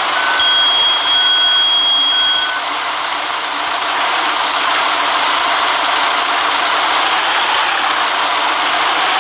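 City bus running with a steady rush of noise. During the first two and a half seconds a warning beeper sounds three times, about once a second, with a higher steady tone alongside; then the beeps stop.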